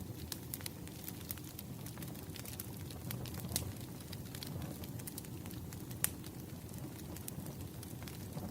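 Wood fire burning with a steady low rumble and irregular sharp crackles and pops, the loudest pop about six seconds in.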